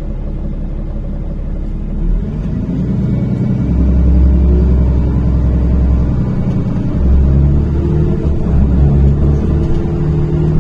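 NefAZ-5299 city bus engine heard from inside the cabin, running low and then pulling away about two seconds in, its note rising as the bus accelerates. It dips briefly near the middle and then climbs again.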